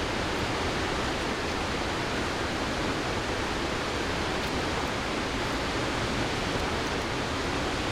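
Steady, even rushing of water, like a waterfall or fast river.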